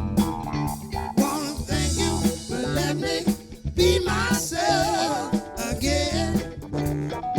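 Live funk band playing: a drum kit keeping a steady beat under bass and guitar, with a melody line carrying wide vibrato about four seconds in.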